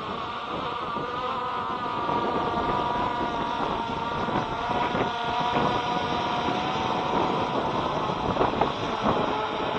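Small quadcopter's propellers humming in steady flight, a whine of several steady pitches that drift slightly, over gusty wind buffeting the microphone.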